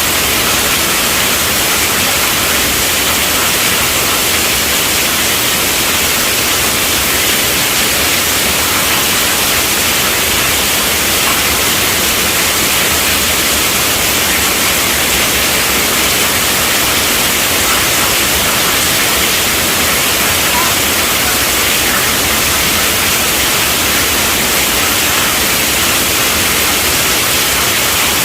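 Heavy rain pelting a tent roof: a dense, steady hiss of drops with no letup.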